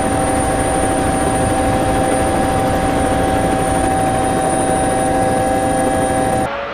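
A steady, loud mechanical drone: a rumbling noise with several unchanging tones and a thin, high whine on top, holding one pitch throughout, then cutting off suddenly near the end.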